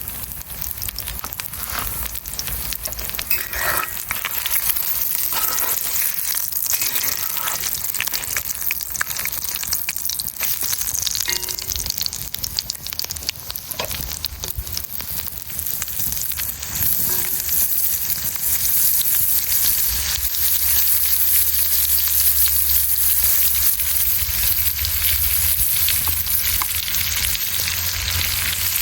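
Food sizzling and crackling in a hot pan over a campfire, growing louder about two-thirds of the way through.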